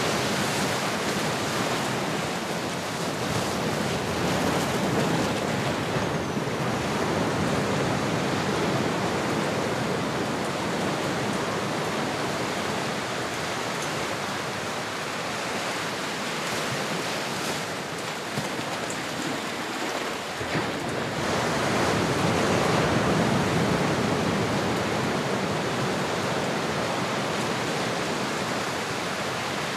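Ocean waves washing on a shore in a steady rush, swelling louder about two-thirds of the way through.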